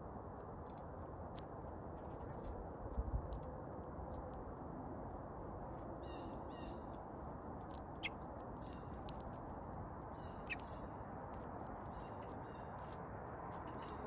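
Faint bird chirps and short calls over a steady low background noise, with occasional sharp taps as eastern bluebirds peck at seed on a tabletop feeder. A low thump about three seconds in is the loudest sound.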